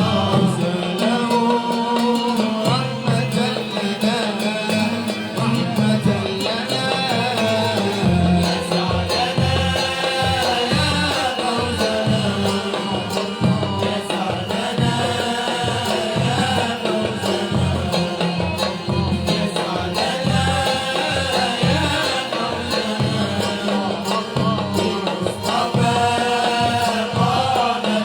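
Malouf ensemble playing a melodic passage, with a regular drum beat coming in about eight seconds in.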